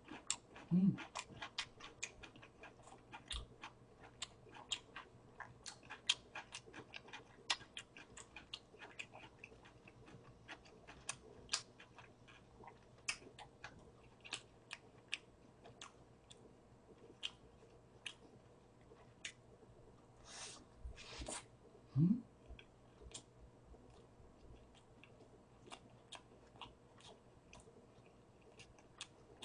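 Close-miked chewing of a burger: a steady scatter of small wet mouth clicks and smacks. A short, low voiced sound rises about two-thirds of the way in.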